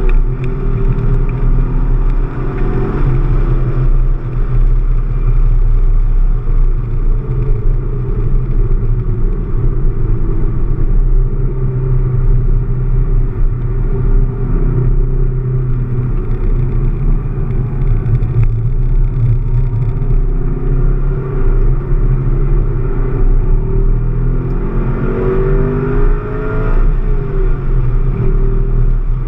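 Chevrolet Camaro SS's V8 engine heard from inside the cabin under hard driving: a steady low drone mixed with road and wind noise. The engine pitch sweeps up and down near the start and again near the end.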